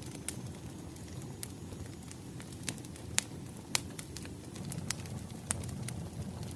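Crackling wood fire: a steady low rush with sharp pops and snaps scattered through, the loudest two a little past three seconds and near four seconds in.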